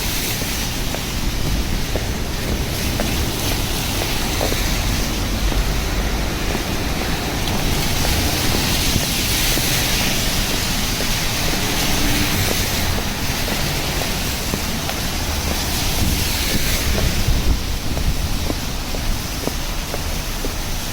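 Steady hiss of rain on a wet city street, with faint scattered ticks of drops.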